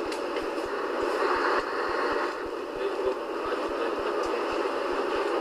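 Scania 143H 450's V8 diesel truck running steadily, a continuous engine and road noise with a faint steady whine.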